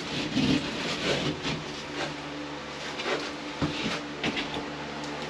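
Irregular knocks and scraping of a drywall panel being lifted and pushed up against the ceiling framing, over a steady low hum.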